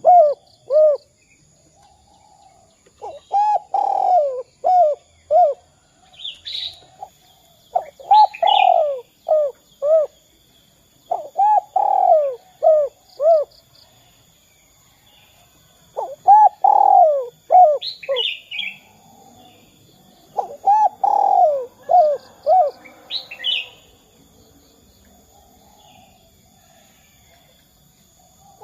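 Spotted dove (derkuku) cooing: about five phrases, each a drawn-out falling coo followed by a few short coos, spaced roughly four to five seconds apart. Brief high chirps from smaller birds fall between the phrases.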